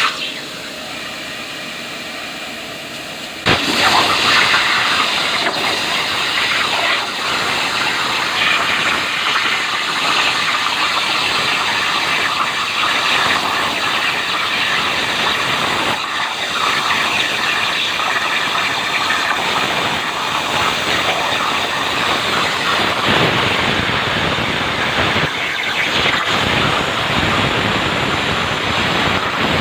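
CNC plasma cutter: a quieter steady hiss at first, then about three and a half seconds in the torch starts with a sudden loud onset and keeps cutting with a continuous loud hiss.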